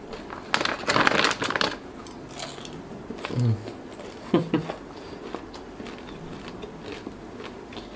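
Close-up crunching and chewing of spicy sugar-glazed crisps (kerepek pedas), with a dense crackly crunch about a second in and scattered small crunches after it. Two short hummed 'mm' sounds come around the middle.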